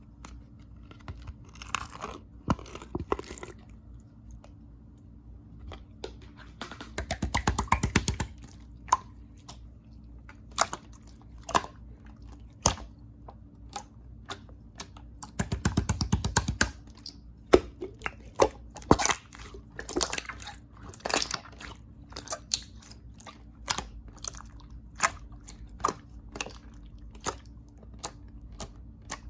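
Clear jelly-textured slime being poked, pressed and squeezed by hand, giving many sharp clicks and pops. There are two longer runs of dense crackling, about seven seconds in and again about sixteen seconds in.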